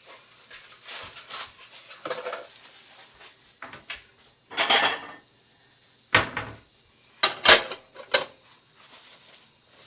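Kitchen handling sounds: a string of knocks, clinks and clatters of dishes and glassware being moved about, the loudest about seven and a half seconds in.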